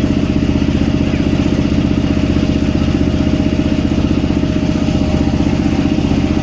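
Boat engine running steadily, with a fast, even thudding beat.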